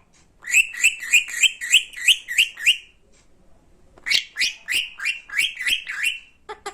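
Indian ringneck parakeet giving two runs of short, sharp rising squawks, about four a second, with a pause of about a second between the runs.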